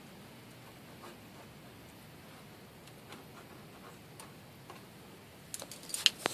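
Small clicks and taps from handling the glue and magnet: a few faint ticks over low hiss, then a quick run of sharp clicks near the end.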